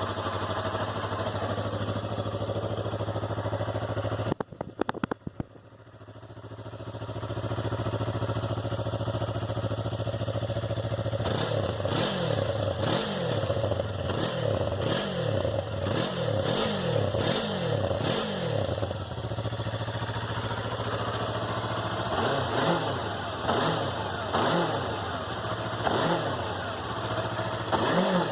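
Yamaha YZF-R3's 321 cc parallel-twin engine idling steadily just after starting, dipping briefly about four seconds in, then blipped over and over, each rev rising and falling about once a second, with further revs near the end.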